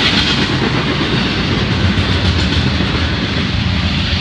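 Double-stack container well cars of a freight train rolling past close by: a steady, loud rumble of steel wheels on the rails.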